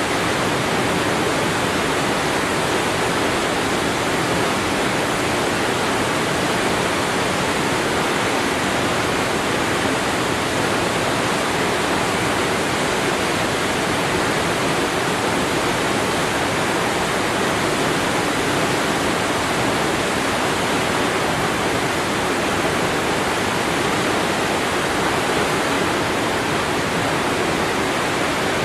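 Waterfall: a steady, even rush of falling and splashing water, unchanging throughout.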